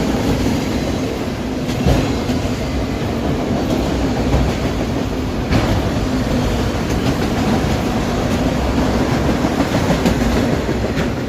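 Empty autorack freight cars rolling past: a steady rumble with wheels clacking over the rail joints, and a few sharp knocks.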